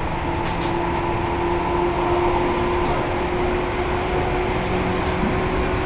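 Inside the carriage of a Seibu Kokubunji Line commuter train running: a steady rumble of the train under way with a steady hum over it.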